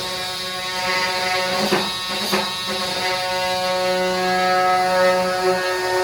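A steady electric buzz from a small motor, with two sharp clicks about two seconds in.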